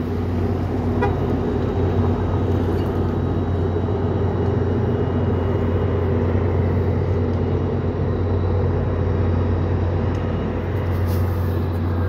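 NJ Transit train's diesel locomotive running steadily as the train creeps slowly across a railroad lift bridge: a continuous, unchanging low drone with a steady hum above it.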